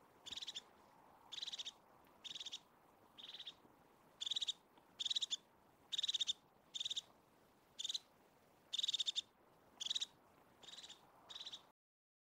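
Crested tit calling: a series of about a dozen short, rapid trills, high-pitched and coming roughly once a second at irregular spacing, which cut off abruptly near the end.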